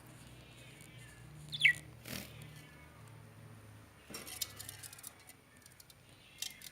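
Pet lovebirds: one loud, short, shrill chirp falling in pitch about a second and a half in, then scattered sharp clicks and small rustling sounds, with another brief call near the end.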